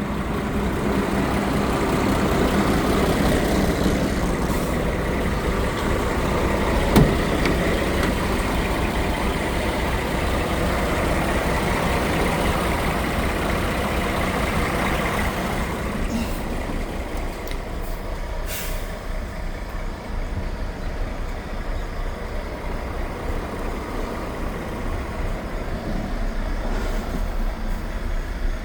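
Scania R420 truck's DT12 straight-six diesel engine running steadily, fuller for the first half and quieter from about sixteen seconds in. A sharp click about seven seconds in and a short hiss a couple of seconds after the engine quietens.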